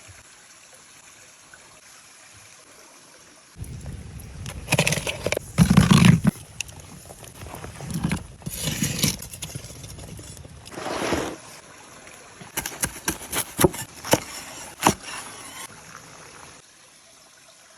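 A stream trickling steadily, with a long stretch of loud, irregular close-up handling and crunching noises and a quick run of sharp clicks near the end.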